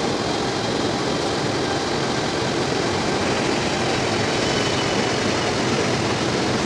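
Double-decker passenger train running on the rails: a steady, even noise of wheels and carriages.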